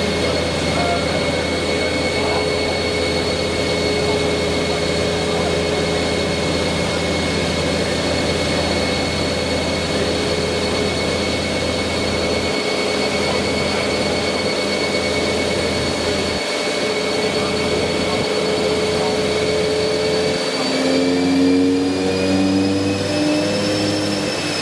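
Car running at a steady speed on a chassis dyno, with a steady high whine over the engine note. Both rise in pitch near the end as it picks up speed.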